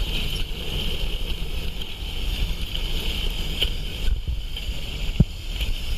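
Toy train running along its track: a steady high whine over a low rumble, with a single knock about five seconds in.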